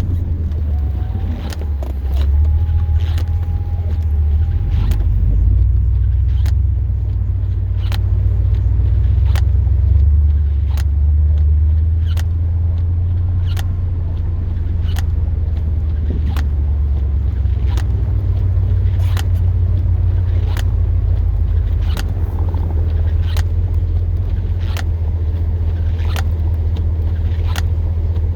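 Pickup truck running with a steady low rumble, with a sharp click repeating about every second and a half.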